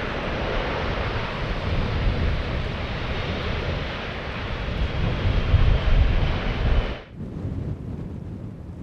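Jet airliner engines running loudly with a deep rumble, with wind on the microphone, swelling a little before cutting off suddenly about seven seconds in. A quieter steady hiss follows.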